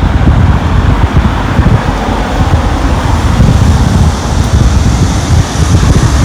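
Wind buffeting the microphone: a loud, uneven low rumble that rises and falls in gusts throughout.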